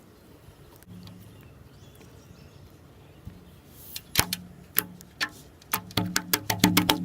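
Slime being pressed and squeezed by hand, giving sharp little clicks and pops: a few from about four seconds in, then a quick run of them near the end.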